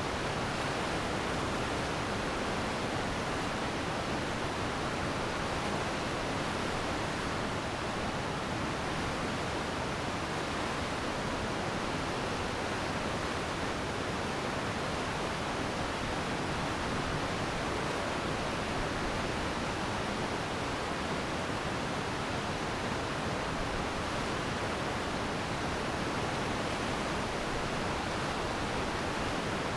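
Glacial meltwater stream rushing steadily: a constant, even roar of water with no breaks or individual splashes.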